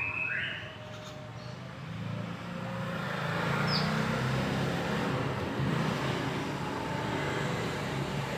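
A motor vehicle's engine rumbling as it passes, building up about two seconds in and holding on. A whistled phrase of stepped notes ends just at the start, and a short high chirp sounds near the middle.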